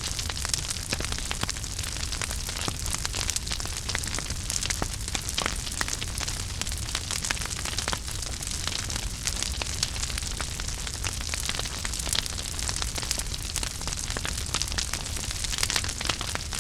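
Wood fire burning in a fireplace, crackling and popping with many small quick snaps over a steady low rumble of flames.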